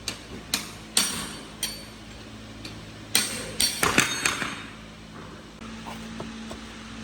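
Hammer blows on metal, irregular and each with a short metallic ring, about ten strikes with a quick run of them about three to four seconds in.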